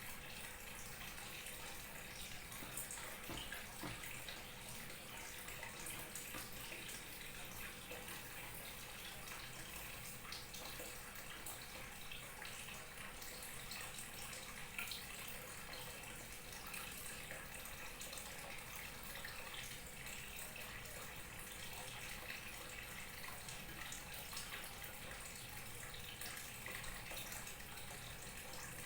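Small waterfall splashing and trickling steadily, a continuous rush with many small splashes.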